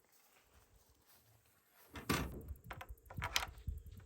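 Near silence, then from about halfway a series of short wooden knocks and clicks, typical of a wooden chicken-coop door being opened and shut on its hinges and latch.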